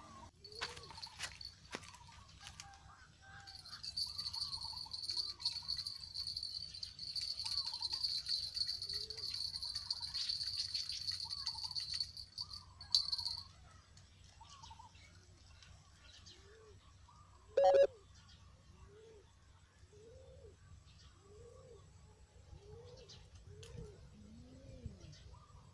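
Birds calling over and over in short rising-and-falling notes. For the first half a steady high insect-like buzz runs alongside, stopping at about the middle. One short loud call or cry comes a little after the middle.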